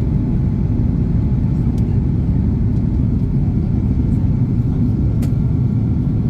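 Steady low rumble of an Airbus A330-300's engine and airflow noise heard from inside the passenger cabin, unchanging throughout.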